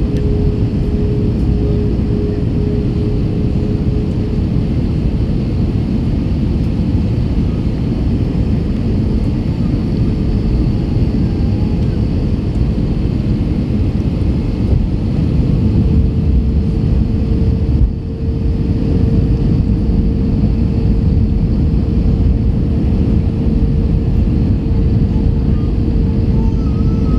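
Airbus A321 airliner on final approach, heard from inside the cabin: a steady roar of engines and airflow with a constant whine that steps up slightly in pitch about halfway through.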